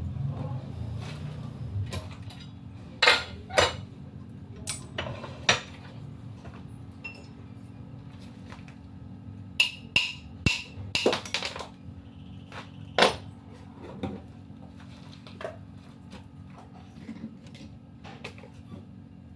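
Metal tools and engine parts clinking and tapping, in scattered sharp knocks with a cluster about ten seconds in, over a steady low hum.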